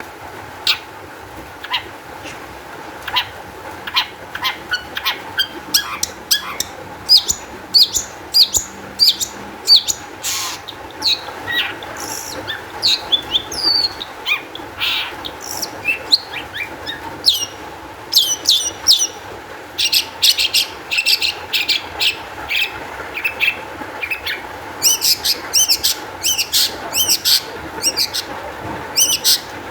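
Long-tailed shrike (cendet) singing excitedly: a rapid, continuous run of short, sharp calls and chattering notes, with dense bursts of quick repeated notes near the end. This is the agitated, vigorous song keepers play to caged shrikes to set them singing.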